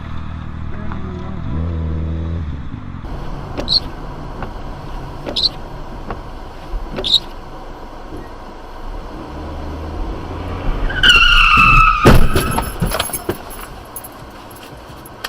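Car tyres squeal for about a second, then a loud crash impact with clattering debris. Before that a car engine hums, with three short high chirps a couple of seconds apart.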